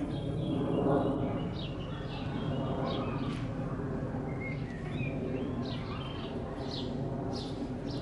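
Small birds chirping in short, separate calls, repeated every second or so, over a steady low background rumble.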